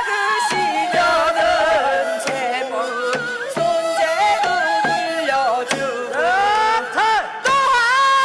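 Korean shaman ritual (gut) music: a melody that slides and wavers in pitch, with drum strokes under it.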